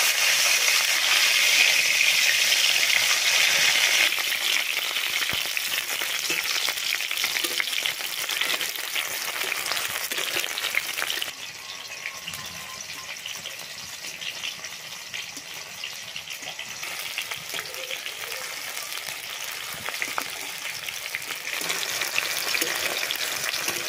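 Chopped onion, garlic and green chillies sizzling as they fry in hot oil in an aluminium kadai. The sizzle is loudest in the first few seconds, drops to a quieter hiss about eleven seconds in, and swells again near the end.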